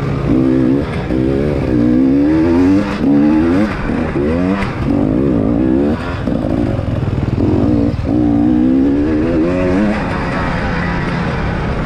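Enduro motorcycle engine heard from onboard, revving up and falling back about once a second as the throttle is worked through turns, then running more evenly near the end.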